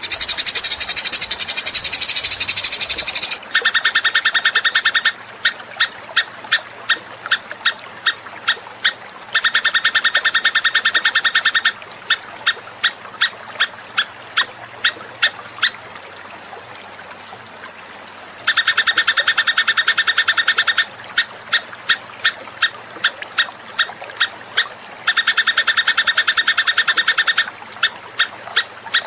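Recorded songbird calls for training cage birds: a harsh rasping buzz for about three seconds, then a rapid rattling trill of about two seconds followed by a run of separate clipped notes about three a second, the trill-and-notes phrase repeated four times.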